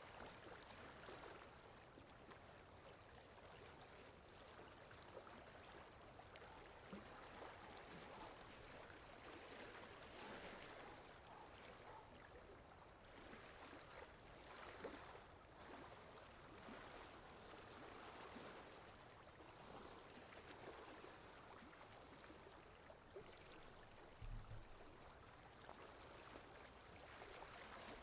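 Faint, steady rainfall: an even hiss that swells and eases every few seconds, with one soft low thump near the end.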